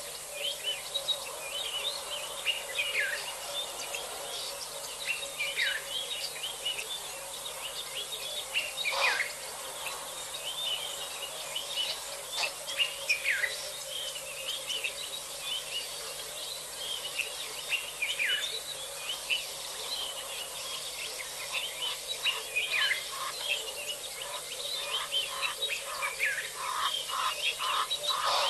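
Wild birds calling and chirping, many overlapping calls including several falling whistles, with a quick run of repeated notes near the end.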